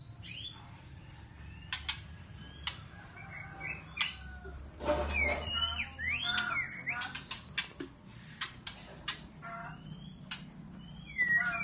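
White-rumped shama calling: a string of sharp ticks mixed with short whistled notes and quick rising and falling sweeps, busiest around the middle.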